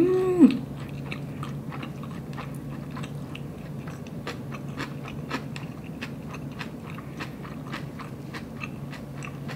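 Close-miked chewing of a mouthful of inari sushi (sweet fried tofu pouch stuffed with rice, topped with chili vegan tuna): many soft, wet mouth clicks at an uneven pace. It opens with a short hummed 'mm' of enjoyment, over a low steady hum.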